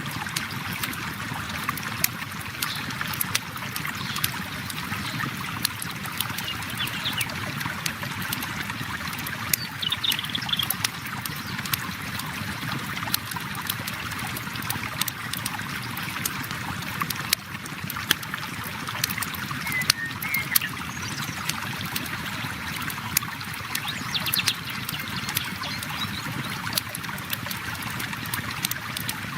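River water flowing steadily, with a campfire crackling in frequent sharp pops and snaps over it.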